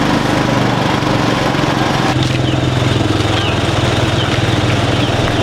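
Small motorbike engine running steadily while riding, with road and wind noise; its engine note changes about two seconds in.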